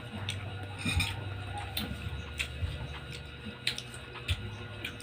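Close-up eating sounds from a mango mukbang: chewing and mouth noises, with short sharp clicks and smacks every half second to a second.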